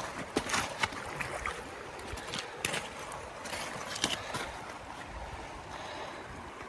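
Water sloshing and trickling, with a scatter of sharp clicks in the first few seconds, then calmer water.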